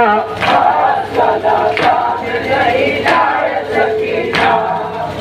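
A group of male mourners chanting a noha refrain in chorus, with matam (rhythmic chest-beating) hand strikes landing about every second and a quarter.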